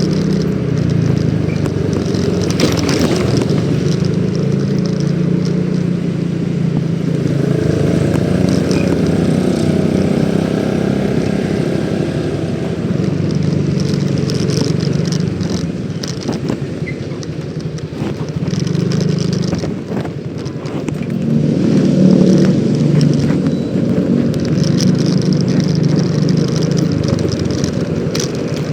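Yamaha X-Ride 113cc scooter's single-cylinder engine running on the move, with wind and road noise. The engine eases off about two-thirds of the way through, then picks up again.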